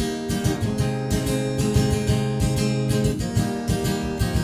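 Acoustic guitar strummed in a steady rhythm, an instrumental gap between sung lines of a live song.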